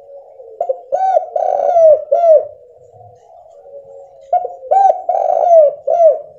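Spotted dove cooing its song in two phrases, starting about half a second in and again just after four seconds. Each phrase is a run of about four to five short, arched coos with one longer coo in the middle. This is the clear call that keepers play to coax quiet doves into singing.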